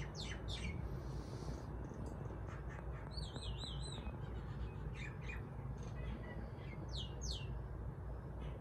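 A bird calling: a few sharp downward-sliding whistles at the start, a quick warbling run of notes about three seconds in, some short notes after that, and two more falling whistles near the end. A steady low rumble runs underneath.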